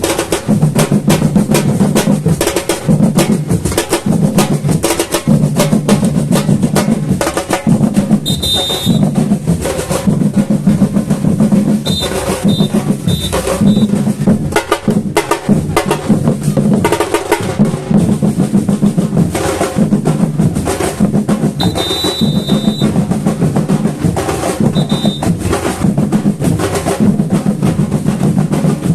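Samba batucada drum ensemble playing a steady carnival rhythm: deep surdo bass drums under rattling snares and other hand percussion. Short high whistle blasts cut in several times over the drumming.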